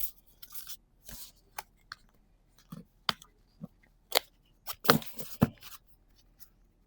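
Trading cards being handled and flipped: a string of sharp clicks and short swishes of card stock, loudest about four and five seconds in.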